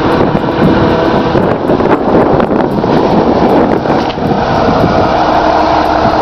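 Loud, steady running of heavy tractor engines, with a few steady engine tones under dense noise.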